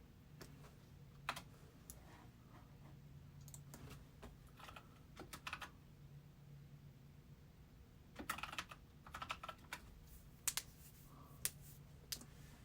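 Faint typing on a computer keyboard: scattered keystroke clicks, with a quick run of them about eight to ten seconds in, over a low steady hum.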